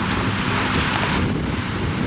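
Wind buffeting the microphone over rushing water, with a low steady hum underneath.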